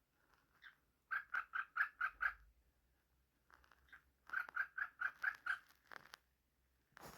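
Cockatiel giving a rapid run of short croaking "kruk" notes, about five a second, twice: a run of about seven notes starting about a second in, and another in the second half.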